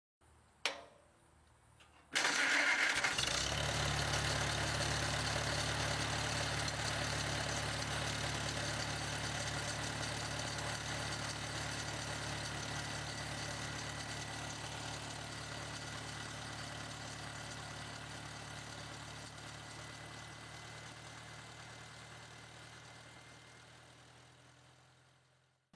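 An engine running steadily, coming in suddenly about two seconds in and fading out slowly.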